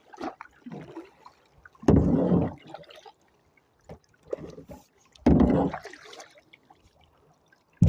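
Kayak paddle strokes in the water: two louder swishing splashes a few seconds apart, with smaller drips and trickles between them.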